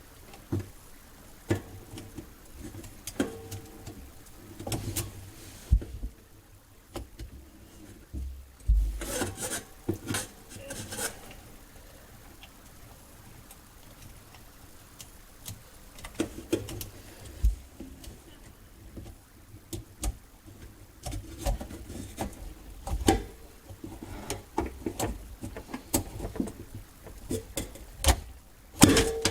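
Drain snake being turned by hand in a clogged sink drain: the cable rubs and scrapes, with irregular clicks and knocks as it is worked further down the pipe.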